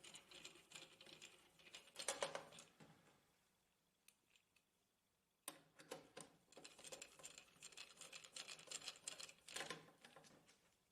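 Faint clicking and rattling of screws being driven into the printer's frame with a screwdriver: a short cluster about two seconds in, then a longer run of small clicks in the second half.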